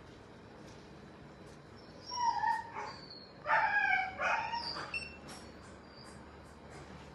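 A pet cat or dog whining or crying in a vet clinic: a few short, high-pitched cries about two to five seconds in.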